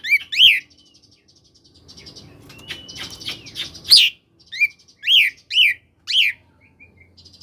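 Oriental magpie-robin (kacer) singing in the 'koslet' style. A soft high twittering trill comes first, then a string of loud, sharp whistled notes, each falling in pitch, about two a second.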